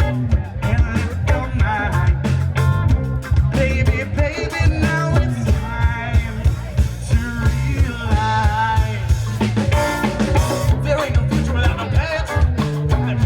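Live band playing an upbeat song on drum kit, bass and electric guitar, with a steady, punchy beat.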